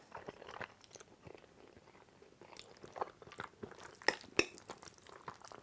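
A person chewing a mouthful of spaghetti carbonara close to a clip-on microphone: soft wet mouth clicks and smacks, with a couple of sharper ones about four seconds in.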